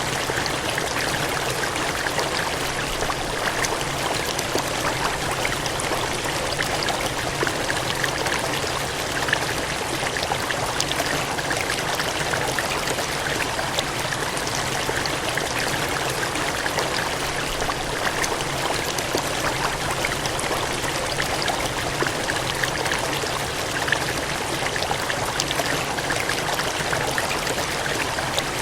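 Water gushing and cascading in a steady rush, with many small splashes.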